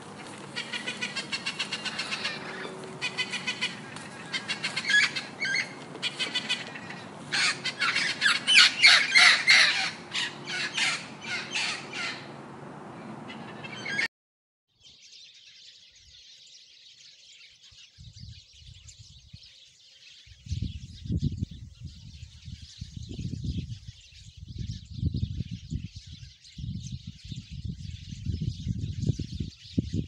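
Red-and-green macaw squawking and calling harshly over and over, cutting off suddenly about fourteen seconds in. After that come a faint, even high-pitched haze and low, irregular rumbles.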